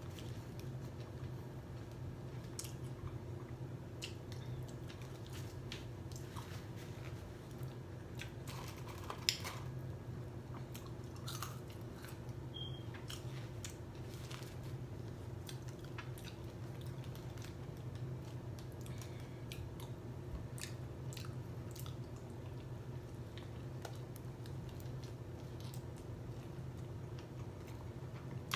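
A person chewing and biting into a burger (an Impossible Whopper), with scattered small mouth and wrapper clicks. One sharper tap comes about nine seconds in, over a steady low hum.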